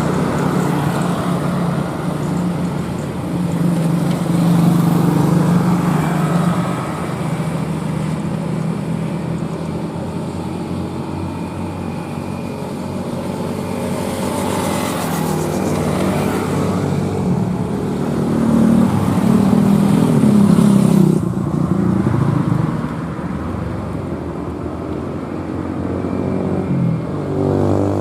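Heavy trucks' diesel engines labouring up a steep climb, the engine note rising and falling as they pull past, loudest about five seconds in and again around twenty seconds in.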